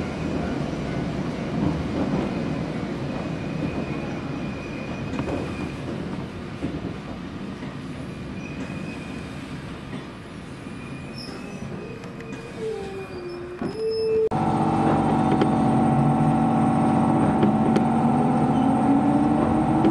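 Former Keio Inokashira Line electric train on the Jōmō Electric Railway, heard from inside the car. At first its wheel and rail noise dies down as it slows, with a brief squeal near the middle. About fourteen seconds in the sound jumps louder, and a motor whine climbs steadily in pitch as the train picks up speed.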